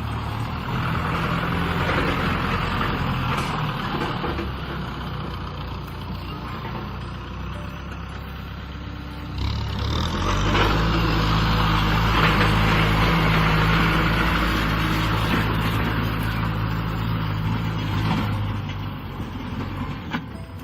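Kubota M6040 SU tractor's diesel engine running while ploughing. It gets louder and steadier about halfway through, then eases off again near the end.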